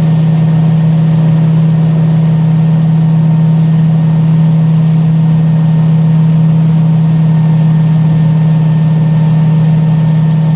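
Boat engine running steadily at low revs, a constant low hum with an even rapid pulse.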